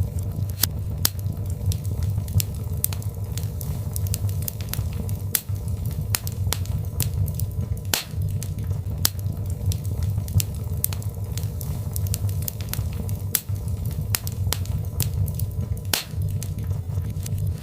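Birch logs burning in a fireplace, crackling and popping irregularly several times a second over a steady low rumble of the flames.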